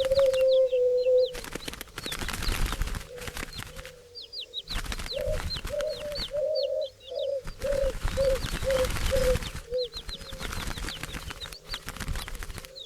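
Doves cooing in a run of short low notes, about two a second, through the middle. Small birds chirp high over them with quick falling notes, and there are bursts of rustling noise.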